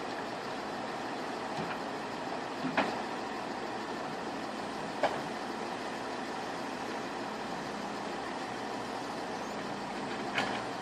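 A machine running steadily, with three sharp knocks spread through it.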